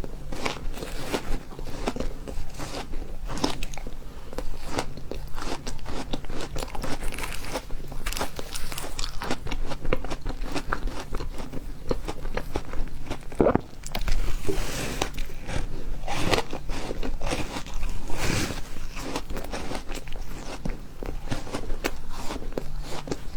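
Refrozen ice being bitten and chewed close to the mic: a steady run of sharp, irregular crunches and cracks.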